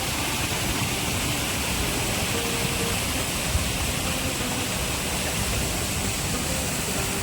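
Water rushing steadily down a small waterfall, an even, unbroken noise.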